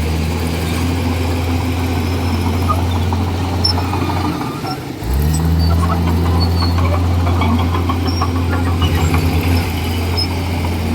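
Komatsu D41E bulldozer's diesel engine running steadily under work. Its note drops for about a second near the middle, then climbs back up. Light clicking runs through the middle part.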